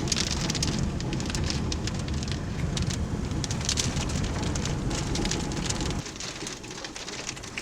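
Rain spattering on the storm chaser's vehicle: a dense hiss of many sharp drop hits. Under it is a heavy low rumble that drops away suddenly about six seconds in.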